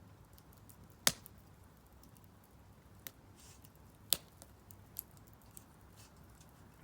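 Split firewood burning in a Solo Stove Campfire fire pit, crackling with faint ticks and two sharp pops, one about a second in and one about four seconds in.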